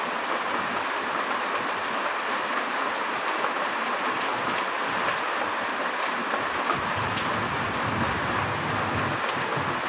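Heavy rain falling in a steady, even hiss, with a faint low rumble joining in during the second half.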